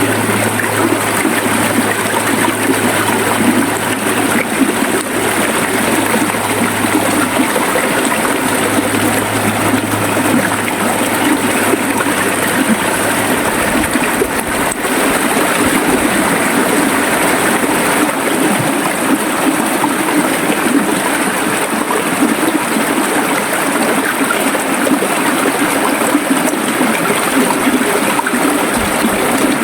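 River water flowing steadily, a constant rushing and gurgling.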